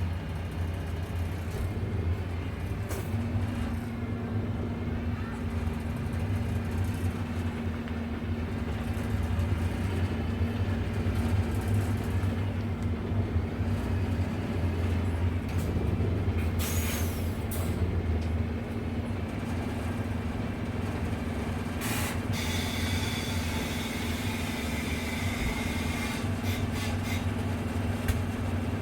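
Concrete mixer truck's diesel engine running steadily, with two short hisses of air: one a little past halfway and another a few seconds later.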